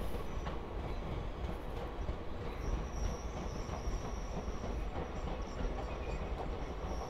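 Coaches of the Mumbai CSMT–Howrah Mail, an Indian Railways passenger train, rolling along the rails with a steady rumble. A thin, high wheel squeal comes in about two and a half seconds in and holds for most of the rest.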